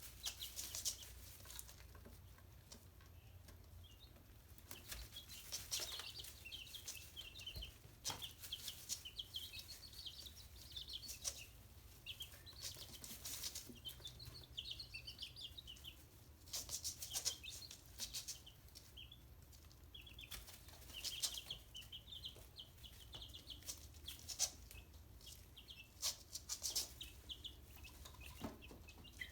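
Young chickens peeping in quick runs of short high notes while going after live mealworms, with scattered sharp taps and scuffles of pecking and wing flaps.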